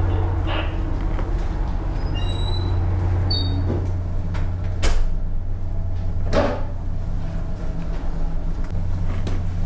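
A steady low engine hum from the vessel's machinery. About two seconds in come a few brief high-pitched squeaks, followed by two sharp knocks, one about five seconds in and one a little over six.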